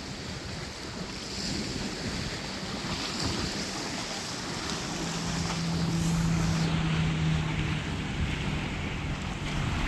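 Wind buffeting the microphone over river water lapping, growing gradually louder. A steady low hum rises out of it about halfway through and fades a couple of seconds later.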